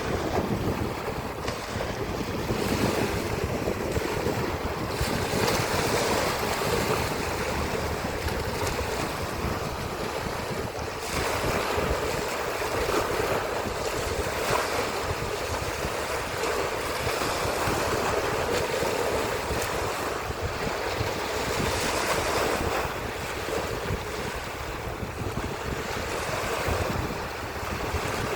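Sea waves washing in, swelling every few seconds, with wind buffeting the microphone.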